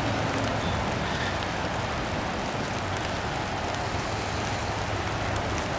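Steady rain falling, an even hiss of drops on surfaces, with a low steady hum underneath.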